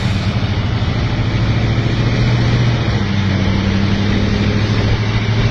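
Vehicle engine running steadily with a low hum, under a loud, even rushing noise.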